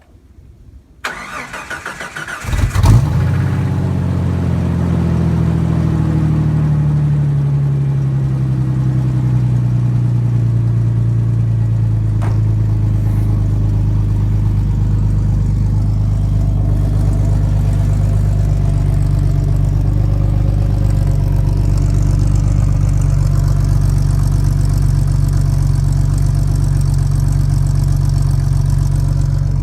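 1990 Jeep Comanche's 4.0-litre straight-six being cold-started: the starter cranks for about two seconds, the engine catches with a loud flare, then settles from a fast idle to a lower steady idle over the following several seconds.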